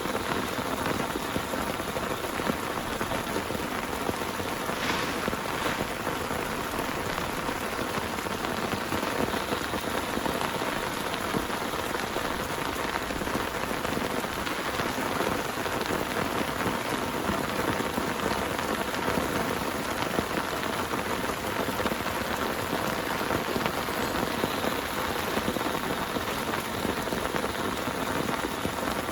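Heavy rain falling steadily, a dense hiss of drops hitting a surface, unchanged in strength throughout.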